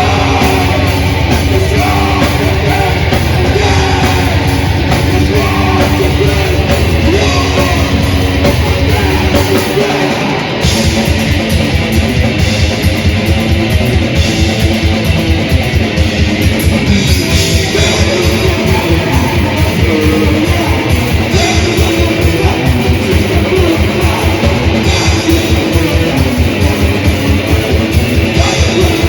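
Death/thrash metal band playing live, with distorted electric guitars, bass and drums. About ten seconds in, after a brief drop, the drums switch to a fast, steady kick-drum pulse under the riffing.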